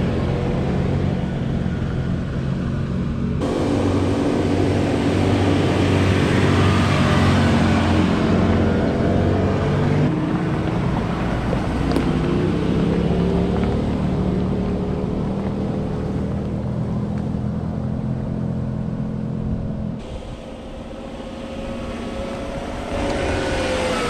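Ford Ranger ute's engine running at low speed as it crawls over steep rises on a dirt four-wheel-drive track. The engine note shifts a little in pitch, jumps abruptly several times, and is quieter for a few seconds near the end.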